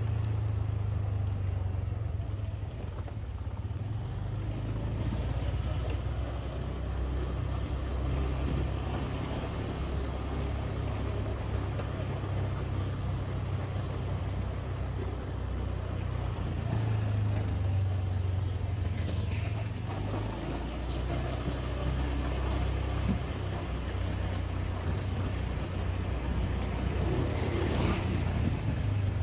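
Motorbike engine running steadily while riding along, over a continuous rush of road and wind noise.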